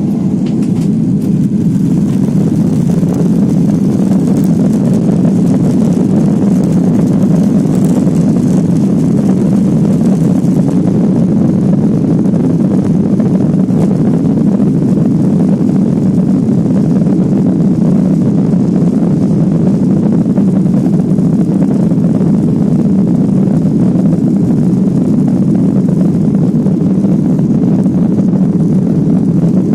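Boeing 737-800's CFM56 turbofan engines at high thrust, heard from inside the cabin as a loud, steady low rumble, as on the takeoff run.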